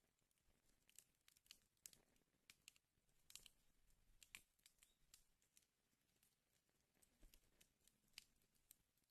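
Wood fire burning in a fireplace, faint and crackling, with irregular sharp pops and snaps a few times a second.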